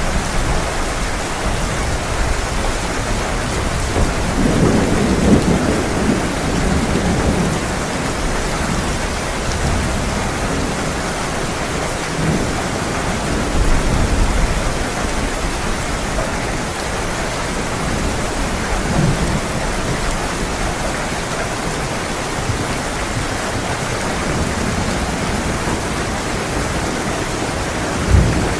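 Heavy rain pouring steadily, with low rolls of thunder swelling about five seconds in and again around the middle. A short, sharp boom comes near the end.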